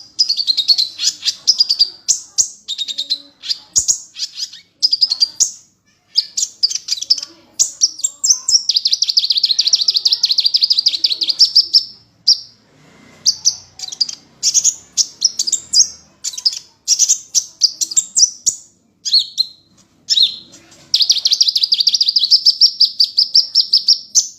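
A small songbird singing loudly: bursts of high, quick chirps and whistled phrases, broken by two long, very fast trills, one about a third of the way through and another near the end.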